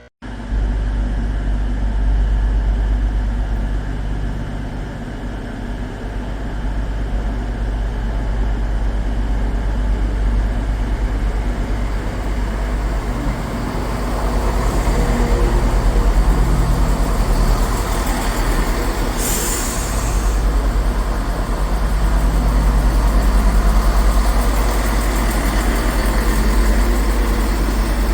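Diesel train engine running at a station, getting louder about halfway through, with a brief hiss of air a little after that; a deep steady rumble sits underneath.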